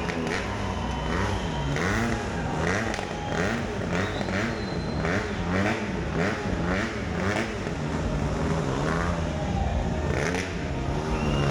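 Motorcycle engine revving again and again, its pitch rising and falling about twice a second.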